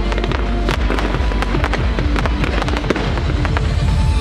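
Fireworks bursting overhead, many quick bangs and crackling stars in rapid succession, with music playing underneath.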